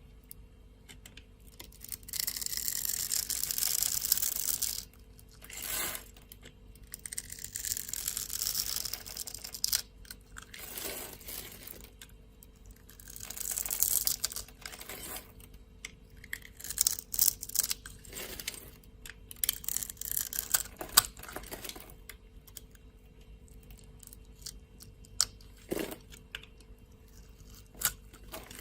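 A knife cutting into dry soap: several long scraping strokes, followed by a run of crisp, crunchy crackles as the soap is cut.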